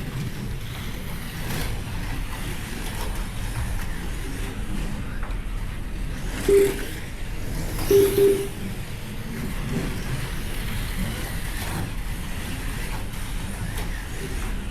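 Slot cars lapping an electric slot car track, a steady low motor and track rumble. Three short electronic beeps, one about six and a half seconds in and two close together about eight seconds in, typical of the lap-timing system.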